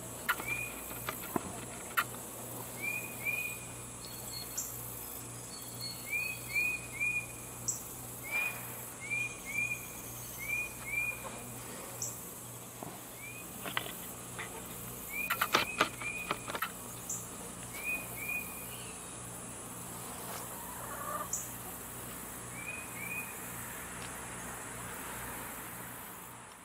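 Small songbird chirping repeatedly outdoors: short rising chirps, mostly in twos and threes every second or two, with a quicker run of notes about halfway through, over a faint steady background hum.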